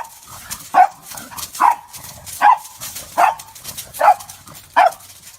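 A dog barking repeatedly in a steady rhythm, about seven loud barks a little more than one a second apart.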